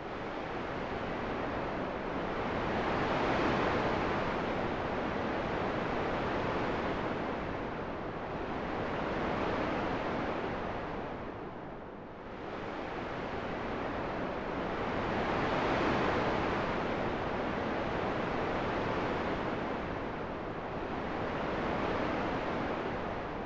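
Wind sound: an even rushing noise that swells and fades slowly, rising to a peak about every twelve seconds.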